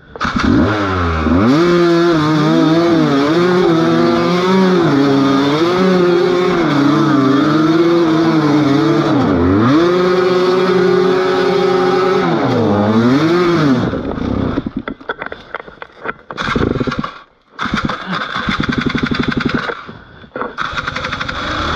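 Motorcycle engine running loudly and revving, its pitch rising and falling. About 14 seconds in, the sound turns choppy and cuts in and out, dropping out briefly.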